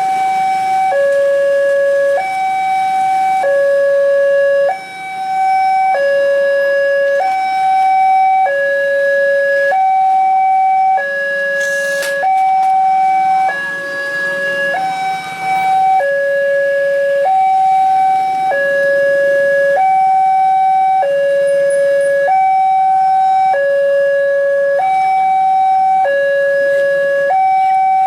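Railway level-crossing warning alarm sounding a steady two-tone hi-lo signal, switching pitch about once a second: a train is approaching and the crossing is closing. A brief sharp noise comes about twelve seconds in, with passing vehicle noise just after.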